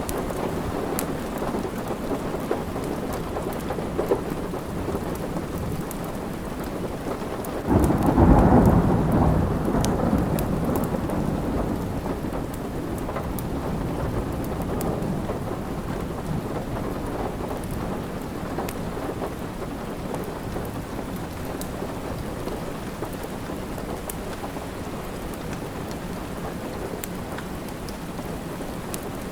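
Steady rain with a clap of thunder about eight seconds in that rumbles and fades away over several seconds. Faint sharp crackles from a wood fire are scattered throughout.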